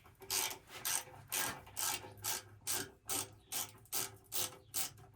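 A socket ratchet wrench clicking in even strokes, about eleven of them at a little over two a second, as it loosens the nuts on pipe clamps.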